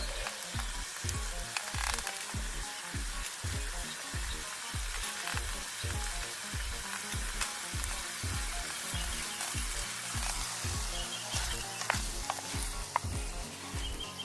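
Vegetables frying in butter in an aluminium cook pot over a campfire, a steady sizzle with scattered clicks and scrapes of a utensil stirring them.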